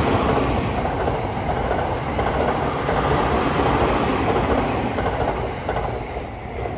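Electric passenger train passing at speed, a loud rush of wheel and rail noise that fades away near the end.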